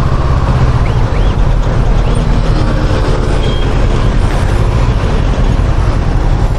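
Honda CB500X motorcycle ride noise on the onboard microphone: a steady, loud low rumble of engine and wind, with faint traffic sounds over it.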